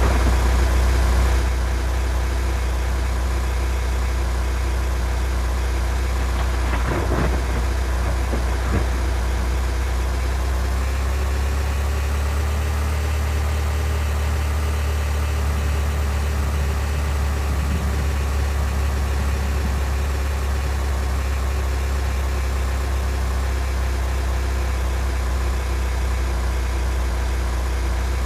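Vehicle engine running at a steady speed with a low, even hum. A couple of faint knocks come about seven and nine seconds in.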